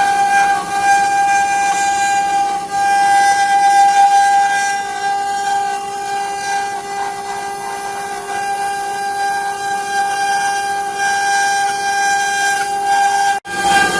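CNC wood-carving router running, its spindle giving a steady high-pitched whine over a hiss. The sound drops out for a moment near the end, then resumes.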